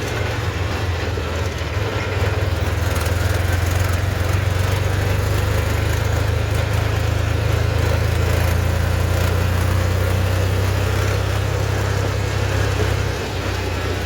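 Tractor engine running steadily while under way, a continuous low drone that eases off briefly near the end.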